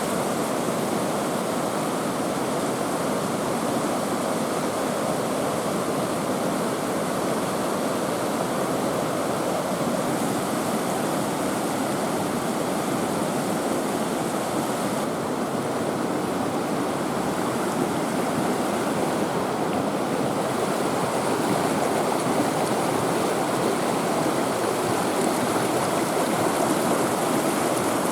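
Small woodland waterfall and creek, water rushing steadily, a little louder near the end.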